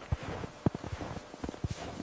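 Footsteps: a quick, irregular run of soft thuds and knocks, one sharper knock a little past the first half-second.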